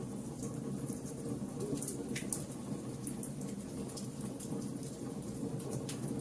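Fire burning with a low, steady rumble and scattered sharp crackles and pops, one louder pop a little over two seconds in.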